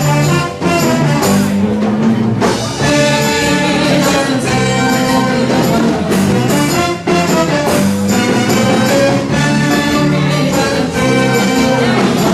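Live band music playing loudly and continuously.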